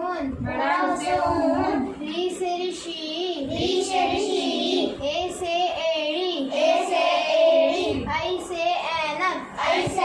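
A child singing in short phrases, the voice rising and falling throughout.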